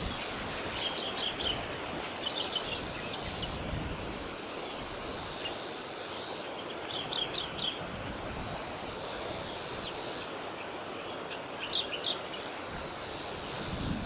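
Small birds chirping in four short bursts of several quick high notes each, over a steady outdoor background rush.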